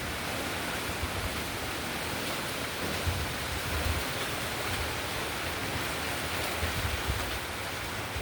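Steady rain falling in a windstorm, with wind now and then buffeting the microphone as low rumbles.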